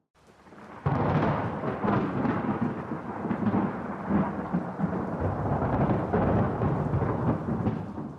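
Thunder: a sudden loud crack about a second in, then a long, heavy rumble that fades away near the end.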